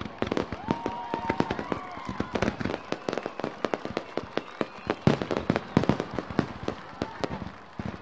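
Fireworks display: a rapid, unbroken string of sharp bangs and pops, several a second.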